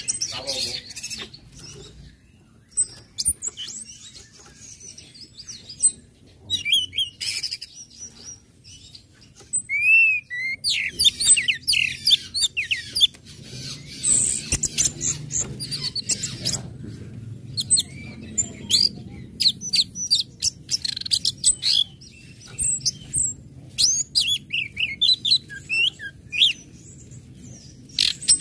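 Orange-headed thrush singing a varied song of short, high chirps and quick whistled slurs, broken by pauses. The notes come sparsely at first and pour out fast from about a third of the way in.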